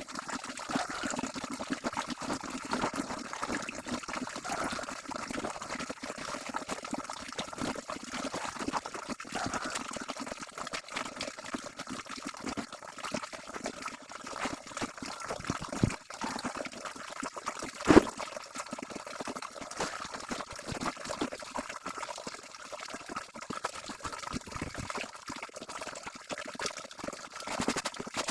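Laundry being washed by hand in water: continuous sloshing and dribbling, with a sharp knock about eighteen seconds in.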